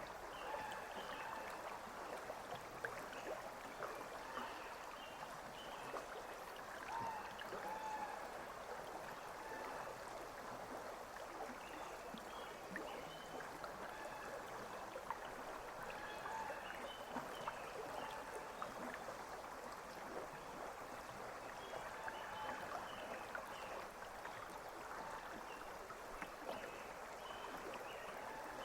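River water running steadily over a shallow bed, with small bubbling and gurgling throughout.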